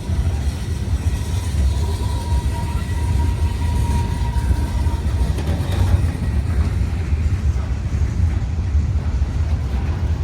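Train cars rolling through a crossing with a steady low rumble as the train slows down. A thin high whine is heard for a few seconds in the first half.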